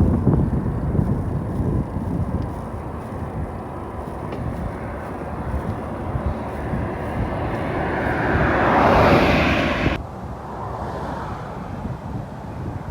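Wind buffeting the microphone with a steady low rumble, as on a moving bicycle. About eight seconds in a rushing hiss swells for about two seconds and cuts off suddenly.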